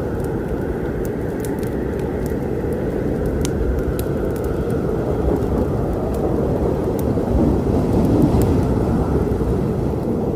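Thunderstorm rumble with rain, a low rolling noise that swells about seven to eight seconds in, over a wood fire crackling with scattered sharp pops.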